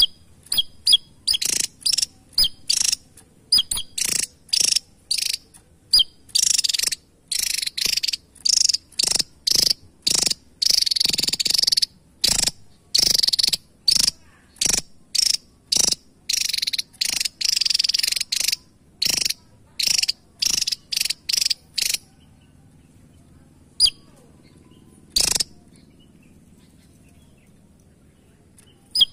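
Javan tesia singing: a fast, jerky run of short, sharp, high notes for about twenty seconds, then a pause broken by two lone notes.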